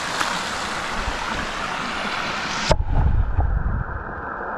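Rushing creek water, a steady full hiss, that cuts off abruptly a little past halfway. A second or so of low rumbling follows, then a quieter, duller water hiss.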